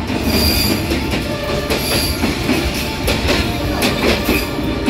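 Diesel train led by a D19E diesel-electric locomotive passing at arm's length: a loud, steady rumble with wheels clattering over the track and a high wheel squeal now and then.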